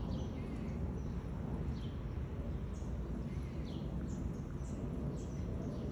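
Small birds chirping, a scatter of short, high, falling notes, over a steady low outdoor rumble.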